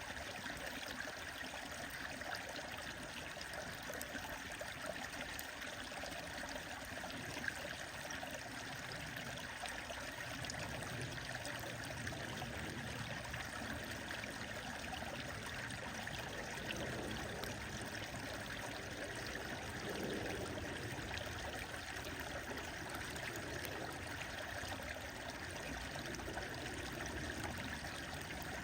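A stream flowing with a steady rushing and trickling, with scattered small crackles from a wood fire and one sharper pop about seven seconds in.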